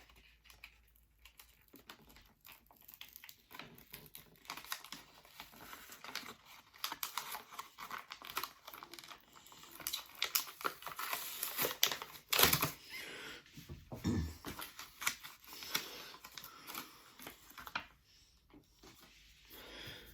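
Packaging being crinkled and torn open by hand, with a dense run of rustling and small clicks that is heaviest in the middle and has a couple of sharper knocks past the halfway point.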